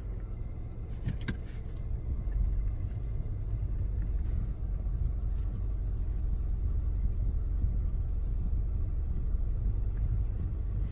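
Car engine running at idle, a steady low rumble heard from inside the cabin, with a couple of faint clicks about a second in.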